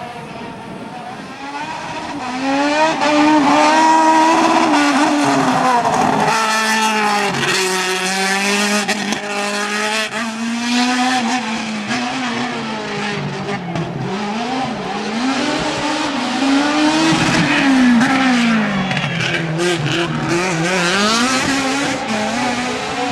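Hillclimb racing car's engine at high revs, its pitch climbing and dropping again and again as it shifts up through the gears and brakes down for bends. It is loudest about three seconds in and again past the middle.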